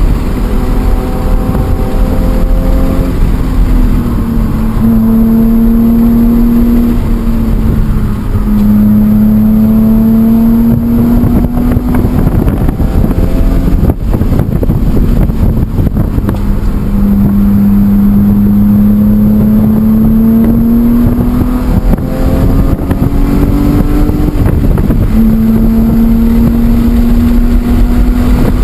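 BMW E46 M3's straight-six engine under hard load on a race track. Its note climbs steadily and falls back sharply several times as the car shifts and brakes, over heavy road and wind noise.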